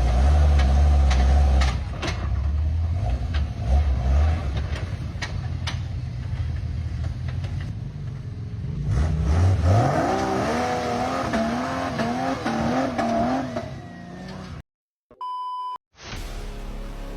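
A motor vehicle's engine rumbling, with scattered knocks, for most of the first half. In the second half a wavering, warbling pitched sound plays over it, and a short electronic beep sounds near the end.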